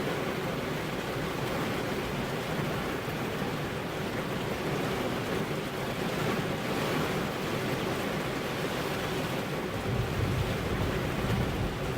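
Steady rain on a car's windows, a dense even hiss, with a low rumble swelling about ten seconds in.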